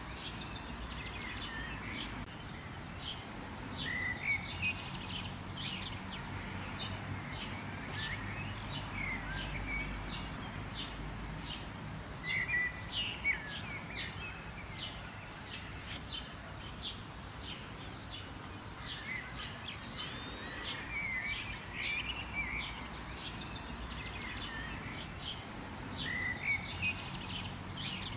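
Birds chirping and calling: many short, quick, high chirps and a few sliding whistled notes that come thick and fast throughout, over a steady low background rumble and hiss.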